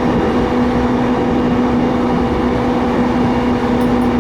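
Keiyo Line commuter train running at speed, heard from inside the car: a steady rumble of wheels on rail with a constant low hum.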